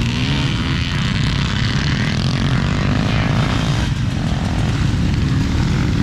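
Motorcycles running around a grass track on a sighting lap, a steady engine drone.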